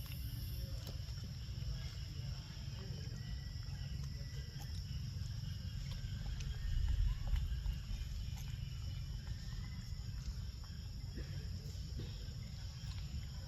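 Outdoor ambience of steady, high insect buzzing over a low rumble, with faint scattered ticks. The rumble swells briefly about seven seconds in.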